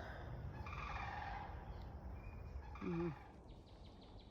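Sandhill cranes calling, a few rattling, trumpeting calls in the distance, which the speaker reads as their alarm call at a dog nearby. A short low hum about three seconds in is the loudest sound, over a steady low rumble of wind.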